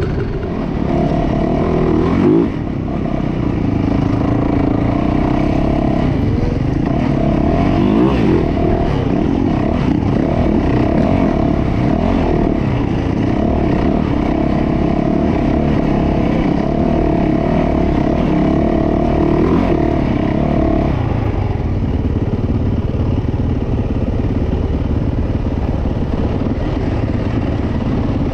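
Dirt bike engine running close by, revved up a few times, then settling to a lower, steadier note about 21 seconds in.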